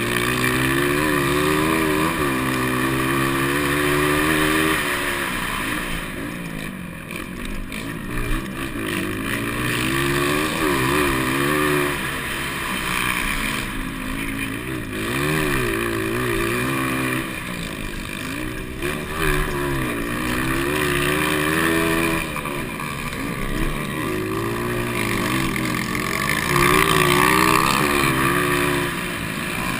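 200cc motocross bike engines racing, revving up and dropping back again and again as the riders accelerate and shift.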